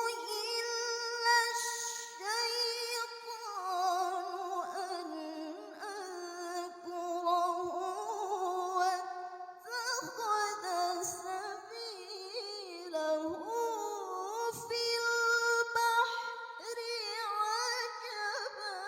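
A woman's voice in melodic Quran recitation (tilawah), drawing out long ornamented notes with a quick vibrato, the pitch winding up and down through the phrase.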